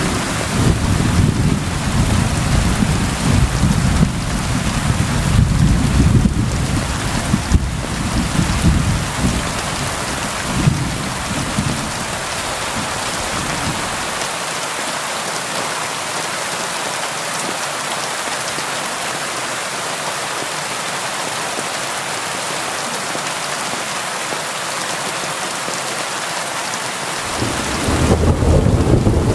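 Steady rain on a window, with thunder rumbling low through the first ten seconds or so and dying away. Then rain alone, until thunder starts rumbling again near the end.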